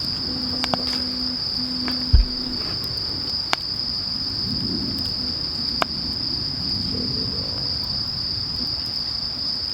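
Insects, crickets or similar, trilling steadily at one high pitch, with a few sharp clicks and a short low knock about two seconds in.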